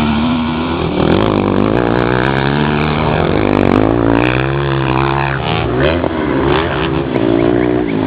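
Motocross bike engines revving, their pitch climbing and dropping again and again as the throttle is worked, with more than one bike heard at once.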